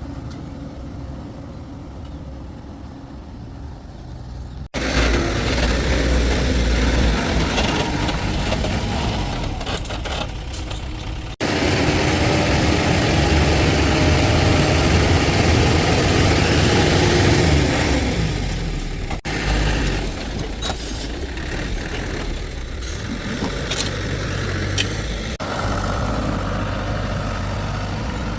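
Vehicle engine running, heard across several short clips that cut abruptly from one to the next and differ in loudness.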